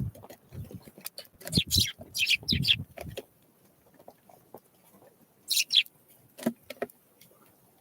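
Small wild songbirds giving short, high, down-slurred calls, a quick cluster of them early and a pair about midway, amid scattered light taps and thumps.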